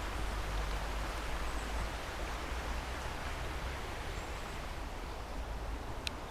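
Steady outdoor background noise with a low rumble, typical of wind on a handheld microphone, and one short sharp click near the end.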